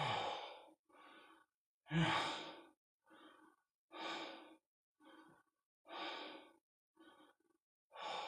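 A man breathing hard after lifting weights: a loud exhale about every two seconds with a quieter inhale between each, the second one voiced as a sighing "yeah".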